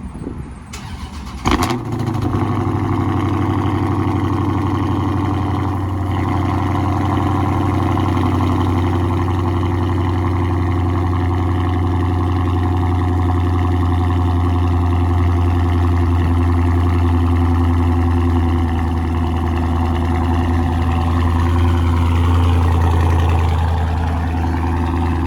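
2020 Dodge Charger Scat Pack's 392 (6.4-litre) HEMI V8 with mid muffler and resonator deleted, cold-started: a brief crank, then it fires loudly about a second and a half in and settles into a steady, deep cold-start high idle.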